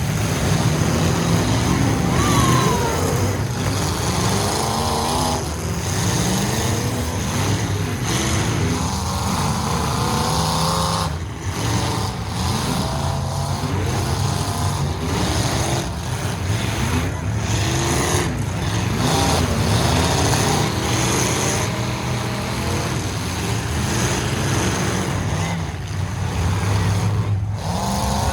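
Several full-size truck engines running hard and revving at once, their pitches rising and falling and overlapping continuously.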